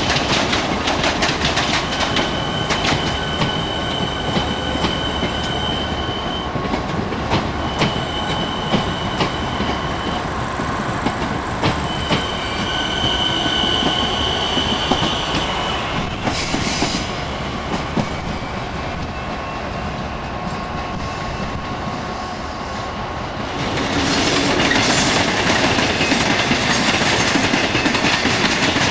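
Melbourne Metro electric suburban train rolling past over pointwork, its wheels clicking over rail joints with high, on-and-off wheel squeal. About 24 s in, a V/Line N class diesel locomotive hauling carriages comes past, louder.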